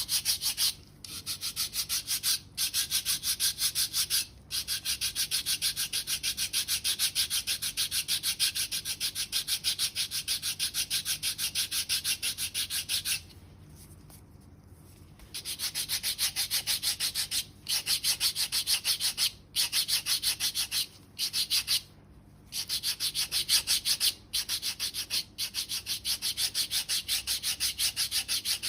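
A hand foot file rasping over hard, dead skin on the sole in rapid back-and-forth strokes, in runs of a few seconds broken by short pauses, with a longer pause about halfway through.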